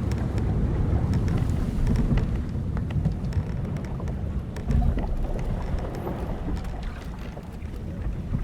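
Soundscape of an old wooden sailing ship at sea: a steady low rush of wind and water, swelling briefly about five seconds in, with scattered small clicks and creaks from the timbers and rigging.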